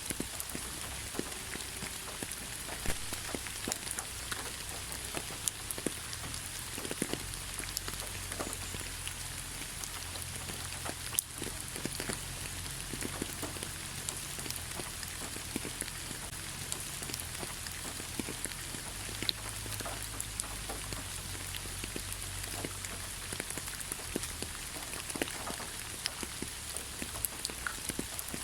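Steady rain falling in a pine forest, with a dense patter of individual drops striking close by over the constant hiss, and a low rumble underneath.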